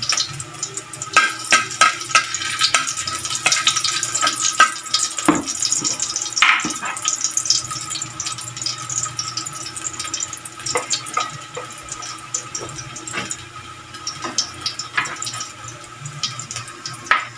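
Chopped garlic sizzling in hot oil in a steel wok, with frequent clicks and scrapes of a metal spatula stirring against the pan.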